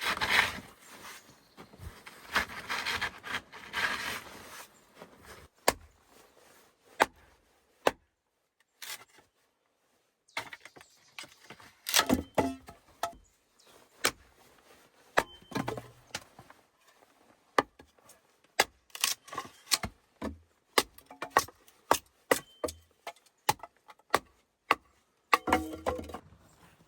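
Irregular sharp knocks and clatters of things being handled, with scraping or rustling bursts in the first few seconds and again near the end.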